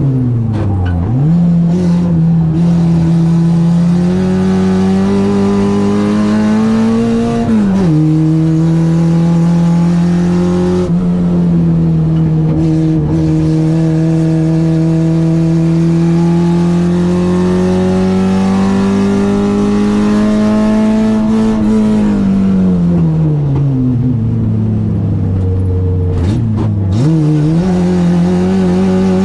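Citroen AX eight-valve four-cylinder engine on twin Weber 40 carburettors, driven hard on track. The revs climb, then drop sharply for a gear change about eight seconds in. They climb slowly for a long stretch, fall away for about four seconds, and then pick up again.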